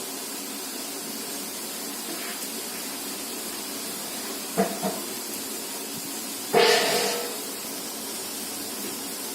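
Steady hiss, broken by a short pitched chirp about four and a half seconds in and then a louder, harsh half-second squawk from a pet parrot about six and a half seconds in.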